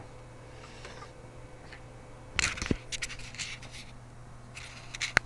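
Scratching, scraping and sharp clicks, like something being handled close to the microphone, starting about halfway through over a steady low hum.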